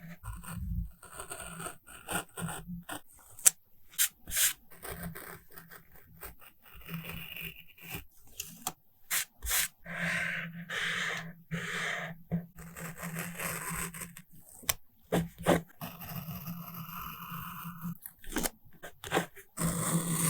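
Close-miked paper and sticker handling for a journal collage: irregular rubbing and scraping, broken by many sharp clicks and taps.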